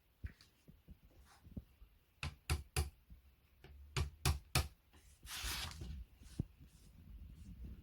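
Sharp knocks and taps while flat-pack furniture parts are fitted together by hand: a quick run of three knocks about two seconds in, another three about four seconds in, then a short scraping rustle.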